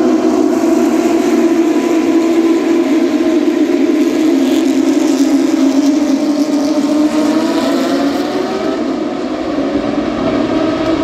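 A pack of Porsche 911 GT3 Cup cars passing on a warm-up lap. Their naturally aspirated flat-six engines run steadily, with several engine notes overlapping. The pitch sags a little about two-thirds of the way through and climbs again near the end.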